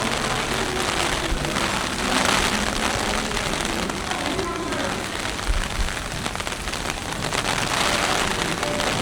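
Typhoon rain falling steadily, a continuous hiss of rain hitting hard surfaces.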